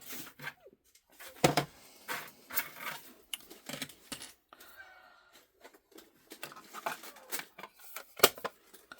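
Irregular clicks, taps and rustling of small items and packaging being handled, with a few louder sharp clicks.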